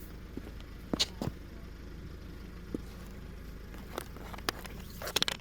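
Split oak firewood logs knocking and clacking as they are handled: a few single knocks, then a quick run of clacks near the end, over a steady low hum.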